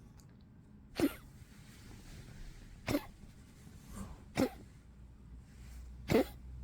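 An old poodle coughing: four short, sharp coughs spaced about one and a half to two seconds apart, with a softer one just before the third.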